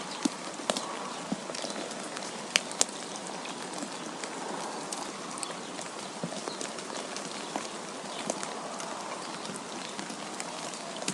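Snowfall and wind ambience: a steady hiss with many small, irregular sharp ticks of something pattering on a surface. Two louder ticks come about two and a half seconds in.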